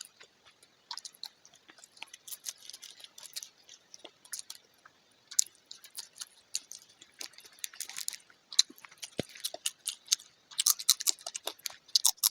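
A person chewing mouthfuls of Chinese food (manchurian, fried rice and hakka noodles) fast, as close-up mouth sounds. The chewing comes as a rapid, irregular run of short clicks and smacks, thickest near the end.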